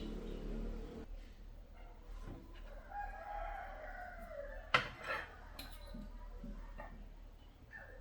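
A long pitched animal call of about two seconds that slides down in pitch at its end, followed by a single sharp click.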